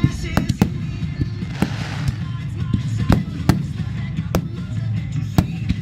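Fireworks finale: a rapid, uneven string of sharp aerial shell bangs about every half second to a second, over a continuous low rumble, in a poor-quality recording.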